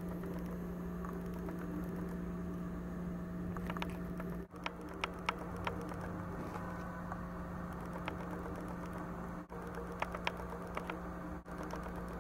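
A steady low hum with scattered light clicks and taps, bunched about four to five seconds in and again around ten seconds in. The sound drops out for an instant three times. No meow.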